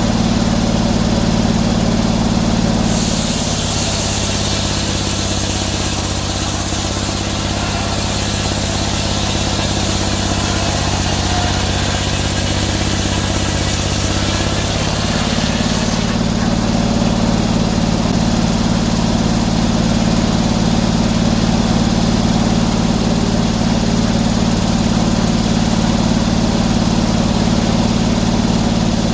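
Sawmill engine running steadily. From about three seconds in until about halfway through, a hiss of the blade cutting through oak joins and the engine's pitch drops a little under the load, then it returns to its free-running pitch.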